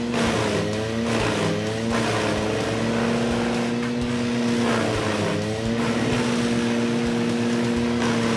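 Engine-driven wood chipper running at speed, its pitch dipping and recovering several times as branches are fed through and the engine takes the load. Scattered knocks sound as the wood is chipped.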